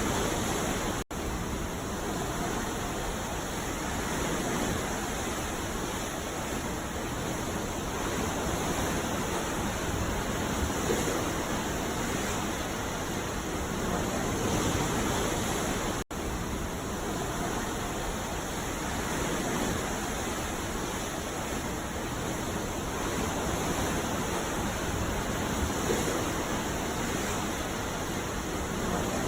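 Ocean surf breaking on a beach: a steady wash of wave noise that swells and eases gently, broken by two very brief dropouts in the audio, about a second in and about halfway through.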